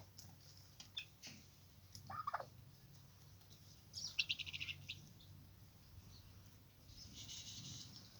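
Faint calls from poultry: a short falling call about two seconds in, then a quick run of chirps around four seconds in.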